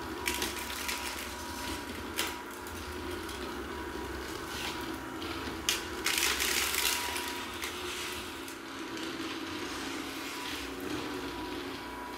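Kärcher K 55 Plus cordless electric broom running with a steady motor hum, its rotating brush picking up debris with irregular crackling and rattling, loudest about halfway through.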